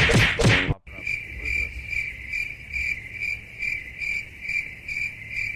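Cricket chirping: a steady high trill pulsing about twice a second. It follows a brief loud burst of sound that cuts off just under a second in.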